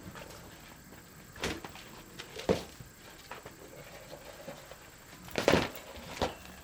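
A few scattered short knocks and clacks, like wood or hard objects being handled: two singles, a louder cluster about five and a half seconds in, then one more.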